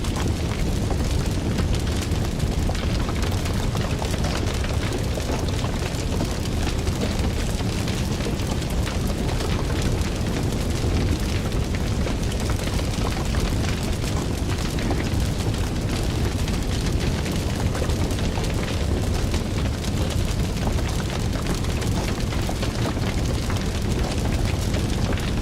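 Fire burning steadily, a low rumble of flame under dense, continuous crackling.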